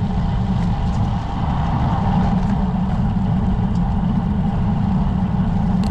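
Wind rushing over a bike-mounted camera's microphone, with tyre and road noise, as a road bicycle rolls along at speed: a loud, steady rumble.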